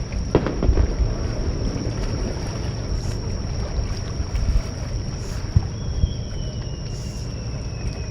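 Wind rumbling on the microphone and water at the shoreline, with a few short, dull thumps.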